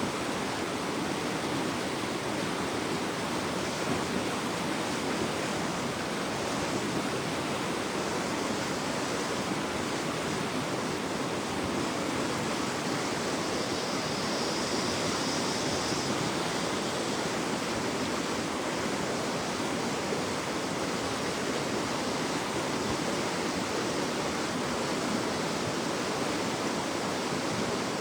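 Floodwater of a river in spate rushing steadily, a full, even roar of turbulent water.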